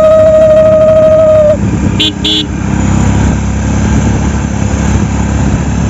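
A vehicle horn sounds one steady held note for about a second and a half, then gives two short beeps about two seconds in, over the steady low rumble of a running engine.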